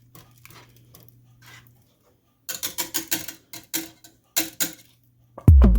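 A quick run of sharp clicks and taps from a saucepan of Bird's custard cooking and thickening on the stove. Near the end, heavy electronic drum beats from background music come in.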